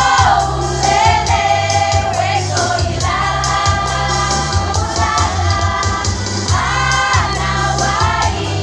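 Women's choir singing over an accompaniment with a steady bass line and beat.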